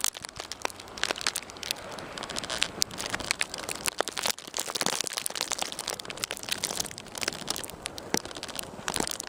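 Footsteps crunching through snow: a dense, irregular run of crunches.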